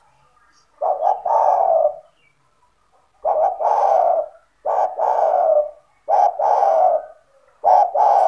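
Spotted dove (tekukur) cooing over and over: five coos in quick succession, each a short note followed at once by a longer one.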